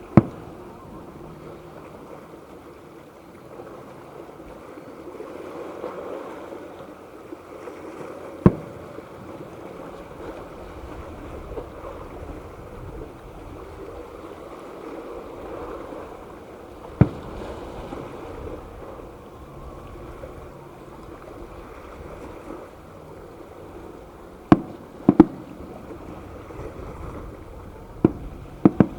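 Fireworks going off in single sharp bangs at irregular intervals, about seven in all, several close together near the end, over a steady background rush of noise.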